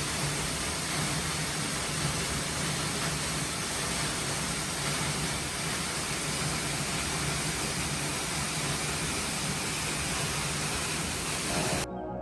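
Steady, even rush of a waterfall, cutting off suddenly near the end.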